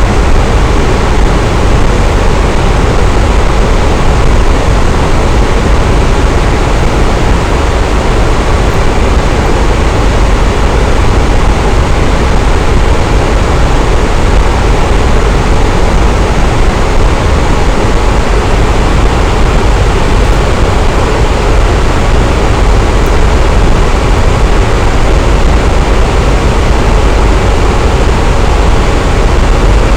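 Electric fan running steadily: a loud, even whoosh of moving air with a deep low hum underneath.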